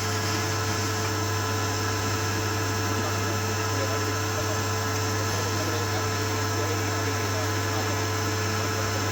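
Steady mechanical hum of a running motor, unchanging in pitch and level.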